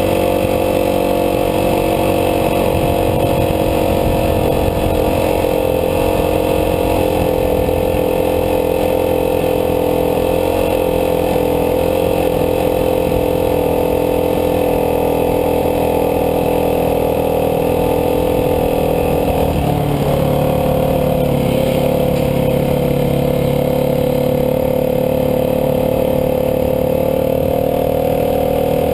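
Dirt bike engine running at a steady speed while riding, with a brief dip and change in pitch about two-thirds of the way through.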